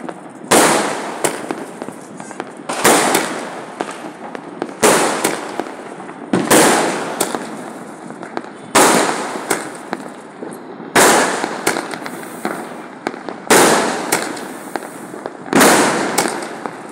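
Aerial firework shells (sky shots) bursting overhead, a loud bang roughly every two seconds, each trailing off into crackling.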